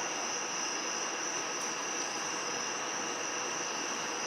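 A steady, unbroken high-pitched chorus of insects such as crickets over an even background hiss after a thunderstorm.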